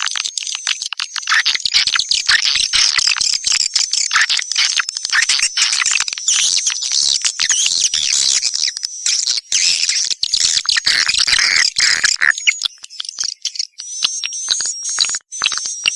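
Swiftlet lure call: dense, rapid twittering and chirping of edible-nest swiftlets, thinning to sparser, higher chirps about twelve seconds in.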